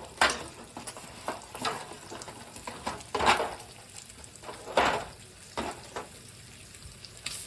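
A utensil scraping and stirring in a pan in about six short strokes, over the light sizzle of bacon frying.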